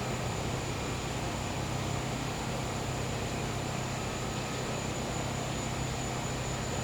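Gas-powered generator running with a steady, even hum, with a continuous high insect drone above it from crickets or cicadas.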